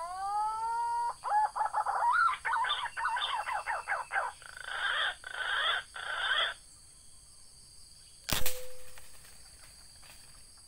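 Bird calls: a rising whistled note, then a quick run of varied warbling notes and three harsher rasping bursts. About eight seconds in comes a single sharp crack, the loudest sound.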